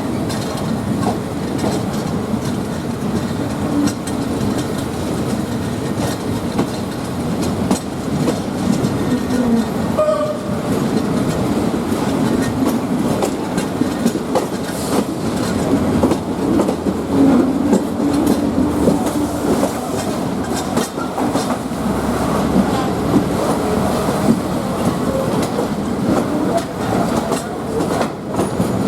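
State Railway of Thailand passenger train running steadily on the rails, its wheels clacking over the rail joints.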